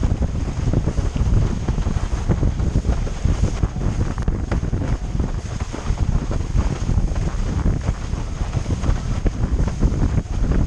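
Heavy wind buffeting on the microphone while windsurfing, a constant gusty rumble, with water rushing and slapping against the board underneath.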